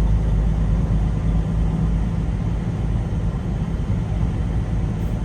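Semi truck's engine running steadily while driving, heard from inside the cab: a low, even drone with road noise.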